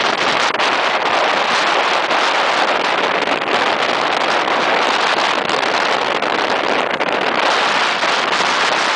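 Steady, loud rush of wind and water on board a racing sailing yacht under way.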